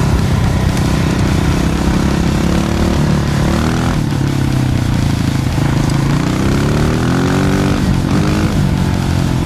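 Honda CRF125 dirt bike's single-cylinder four-stroke engine running under way, its revs rising and falling; about six seconds in the revs climb steadily, then drop off just before eight seconds.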